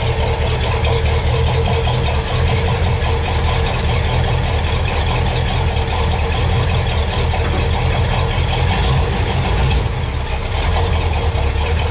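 Old Ford car engine idling steadily.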